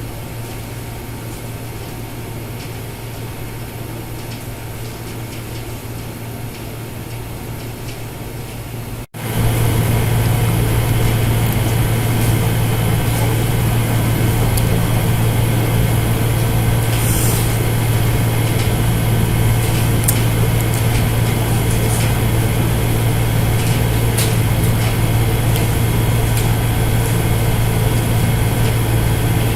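Steady mechanical hum with a few faint small clicks. It breaks off for an instant about nine seconds in and comes back louder.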